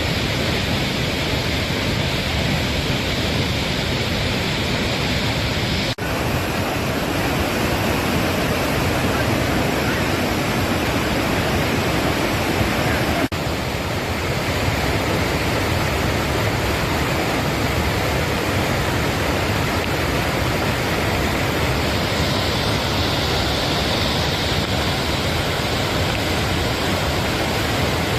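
Flash floodwater rushing in a loud, steady torrent after a cloudburst, with two very brief breaks about six and thirteen seconds in.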